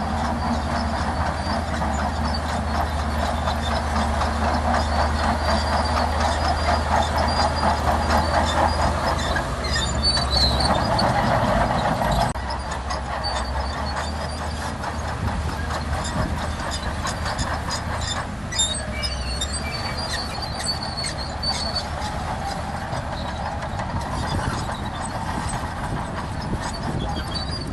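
Shantui DH17C2 crawler bulldozer working, its diesel engine running steadily under the dense clatter and squeal of its steel tracks. The sound is loudest in the first half and eases suddenly about twelve seconds in.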